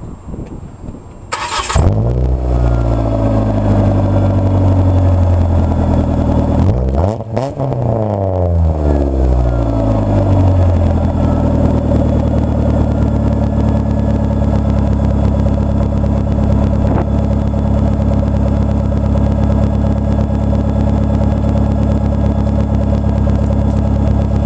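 Saturn car engine started through an Apexi N1 exhaust with the silencer removed: it cranks and catches about a second and a half in, then runs at a fast idle. Its pitch falls, dips and wavers briefly around seven seconds, and it settles into a steady, loud idle.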